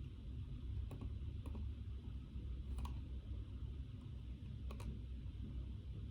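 A few scattered light clicks from desk work, about four over several seconds, over a steady low room hum.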